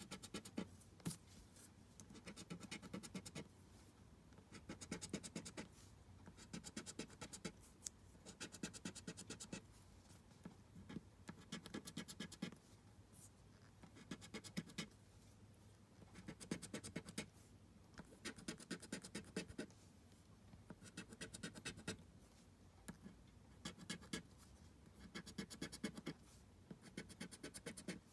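Scratch-off lottery ticket being scratched, rubbing away the coating over the numbers in short bursts of quick strokes, about one burst every two seconds.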